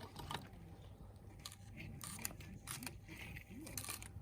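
Burning log fire crackling, with irregular sharp pops.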